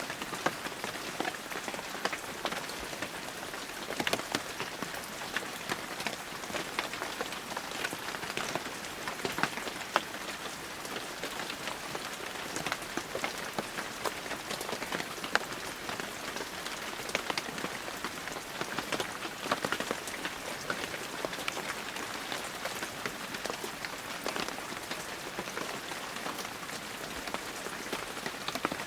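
Heavy rain falling steadily, an even hiss thick with the sharp ticks of individual drops striking leaves and surfaces.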